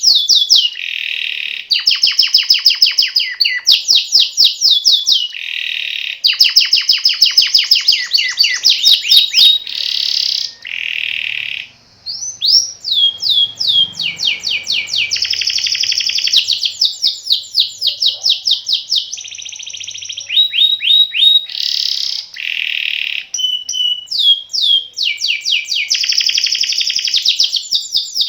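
Domestic canary singing a long, continuous rolling song: fast trills of rapidly repeated notes, switching to a new trill every second or two, with one short break about twelve seconds in.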